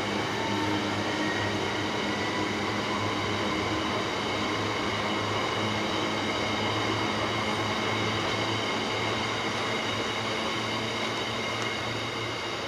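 Freight train of hopper wagons rolling steadily past, wheels on rails, with several steady high ringing tones over the rolling noise. It eases off slightly near the end.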